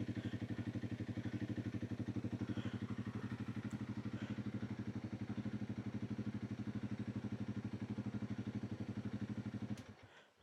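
Honda CRF300 Rally's single-cylinder four-stroke engine idling steadily with an even pulse, then switched off near the end, the sound cutting out suddenly.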